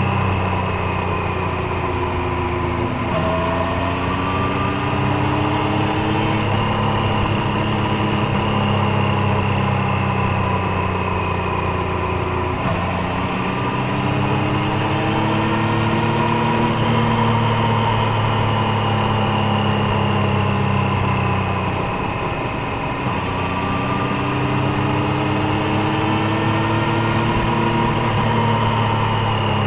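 Triumph Street Triple 765 Moto2 Edition's inline three-cylinder engine and exhaust under way, the note climbing in pitch in several long rises and dropping back a few times in between.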